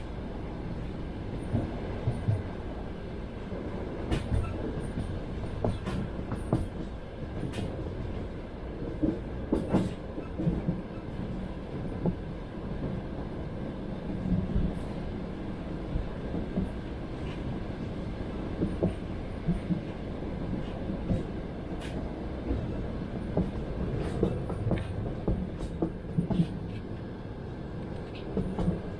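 Train wheels clacking over rail joints, with a steady low rumble of the running carriage underneath and scattered sharper knocks and clicks.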